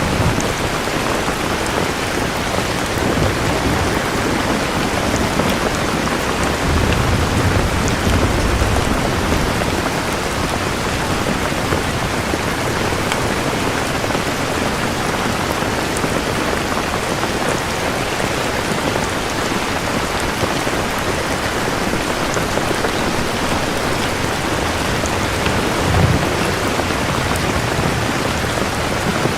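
Steady heavy rain falling, with low rumbles of thunder about seven seconds in and a short rumble near the end.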